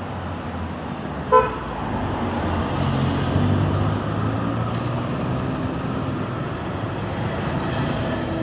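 Road traffic with vehicle engines running, and one short car horn toot about a second and a half in. A low engine drone then builds from about two seconds in as a vehicle comes past.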